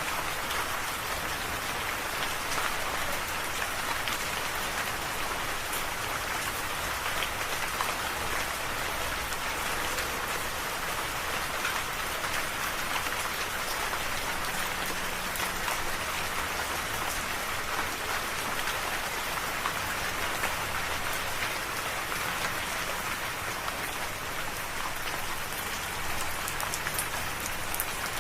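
Steady rain falling, an even hiss with small drops pattering on a surface.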